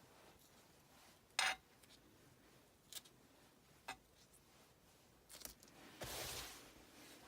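Small craft tools and supplies handled on a tabletop during clean-up. There is one sharp clack about a second and a half in, a few faint ticks, and a brief rubbing, wiping sound near the end.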